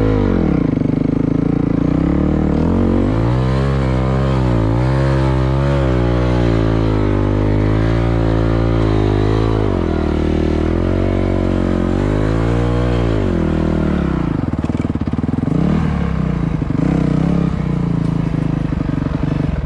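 Dirt bike engine revving hard, its pitch rising and falling over and over as the throttle is worked, with a few drops to low revs.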